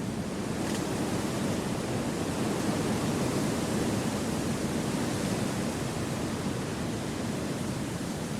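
Wind blowing steadily through forest trees as a continuous rushing noise, swelling a little in the middle and easing off again.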